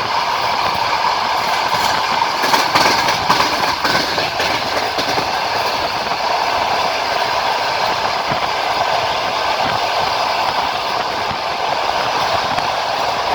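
Moving passenger train heard from inside a carriage at the open window: steady rolling noise of wheels on rail, with a run of clicks and knocks as the wheels pass rail joints about a third of the way in.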